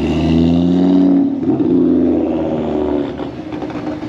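Car engine accelerating away, its pitch rising, with a gear change about a second and a half in, then fading after about three seconds.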